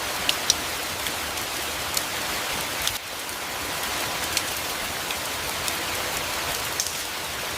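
Steady rain falling, an even hiss with sharp drops tapping here and there.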